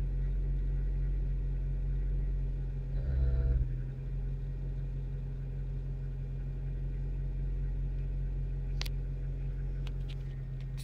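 1995 Acura Integra's B18B1 1.8-litre four-cylinder idling steadily, with a short, louder buzzing thump about three seconds in. This is the intermittent noise from the passenger side of the engine bay that recurs every few seconds whether the engine is cold or warm, and its cause is unknown to the owner.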